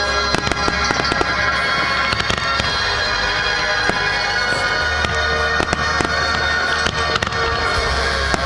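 Fireworks going off in many sharp bangs and crackles, over loud music with long held notes.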